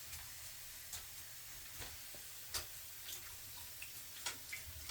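Faint, irregular drips and small splashes of water in a shallow bird bath: scattered light ticks, the clearest about two and a half seconds in, over a steady low hum.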